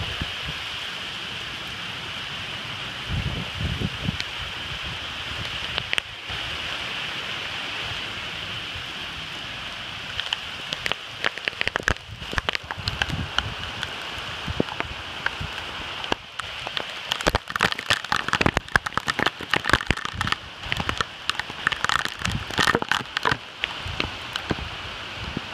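Heavy thunderstorm rain pouring steadily, with wind through the trees. From about ten seconds in, a fast patter of sharp raindrop hits close by joins it, thickest in the second half.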